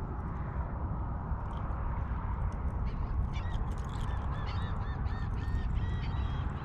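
A bird calling in a quick run of short, harsh, pitched calls, starting about three seconds in and lasting some three seconds, over a steady low background rumble.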